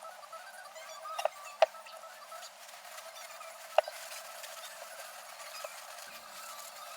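Three sharp clicks or light knocks, about a second in, shortly after and near the middle, over a steady faint hum.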